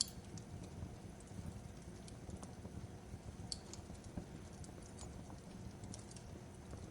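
Fireplace crackling: a low steady rumble of burning with irregular sharp pops and snaps, the sharpest right at the start.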